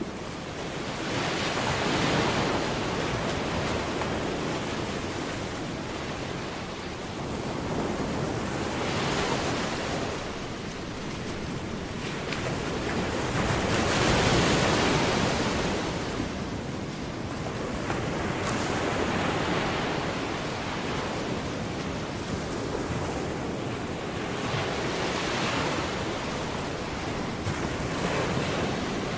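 Ocean surf: waves breaking and washing in, the rushing noise swelling and fading every five seconds or so.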